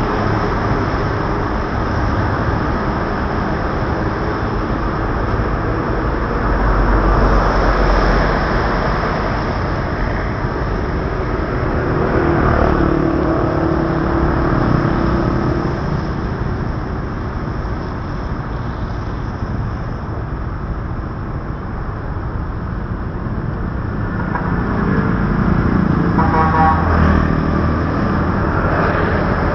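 Street traffic heard from a moving motorbike on a wet city road: a steady hiss of tyres and wind with engines of cars and motorbikes around it. A vehicle horn sounds briefly near the end.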